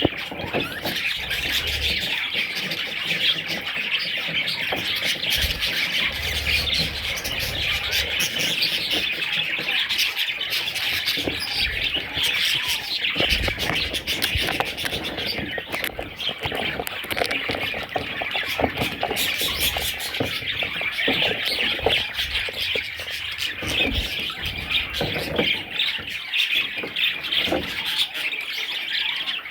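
Budgerigars chattering and chirping without a break, many calls overlapping with occasional louder squawks.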